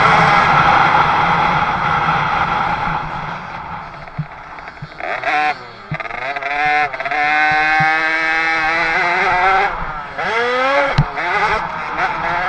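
A 50cc two-stroke motocross bike's engine revving hard. The pitch drops and climbs back sharply about five seconds in and again about ten seconds in as the throttle is shut and reopened, and holds a high steady pitch in between. There is a short knock near the end.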